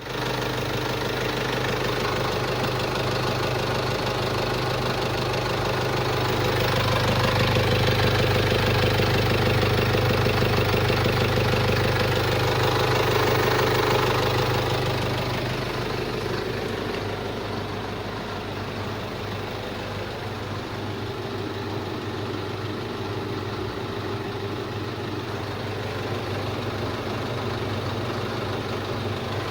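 Kia Sportage engine running steadily at idle, getting louder from about six seconds in and settling back to a quieter idle about fifteen seconds in.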